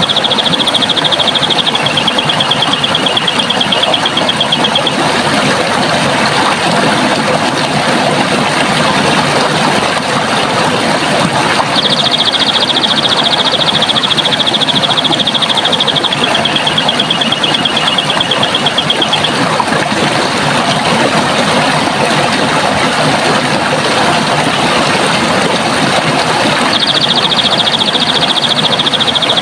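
A stream of running water rushing steadily. A high, rapid trill sounds over it three times: at the start, about twelve seconds in and near the end. Each time it drops slightly in pitch partway through.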